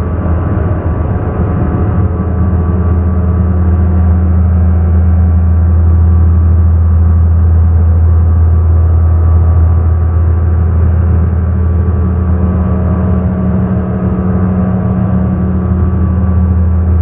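Ambient drone music from analog synthesizers: a loud, steady low drone with many sustained higher tones layered above it, changing little.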